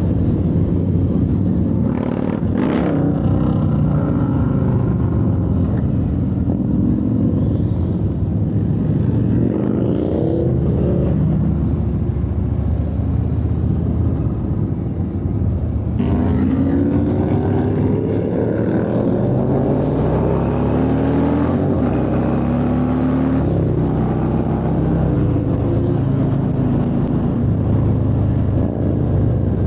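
Motorcycle engine heard from on the bike under hard acceleration, its pitch rising through the gears several times over steady wind rush.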